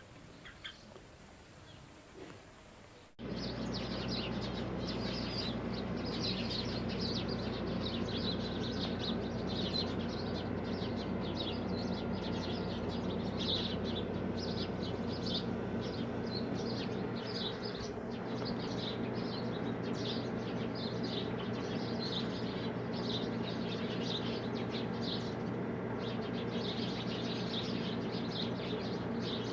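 Small birds chirping in quick, dense runs of short high calls, over a steady low hum; both come in suddenly about three seconds in, after a quieter start with only a few faint chirps.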